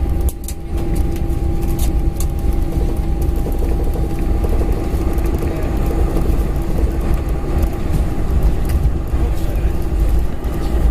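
Boeing 747-400's four jet engines and airflow heard inside the passenger cabin: a steady deep rumble with two constant hums on top, and a few faint clicks in the first couple of seconds.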